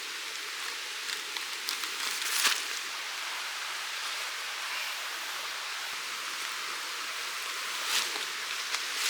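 Mountain stream flowing with a steady rush of water. A few sharp clicks stand out, about two and a half seconds in and again near the end.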